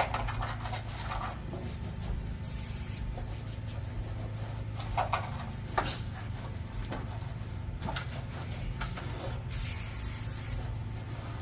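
Two hissing sprays of a detailing product, a short one a couple of seconds in and a longer one near the end, with rubbing and small knocks between them over a steady low hum.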